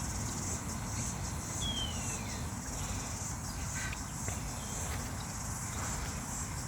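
Steady high-pitched shrilling of insects over a constant low rumble, with one short falling whistle about two seconds in.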